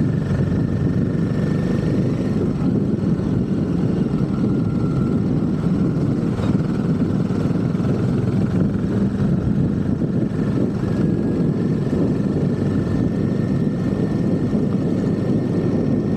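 Royal Enfield Himalayan 450 motorcycle being ridden at a steady pace, its single-cylinder engine running evenly under a constant rushing noise.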